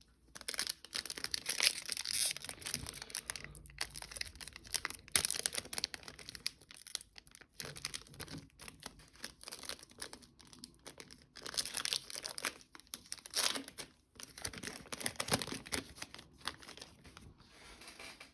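Foil trading card pack wrappers being torn open and crinkled by hand, in irregular bursts of tearing and rustling.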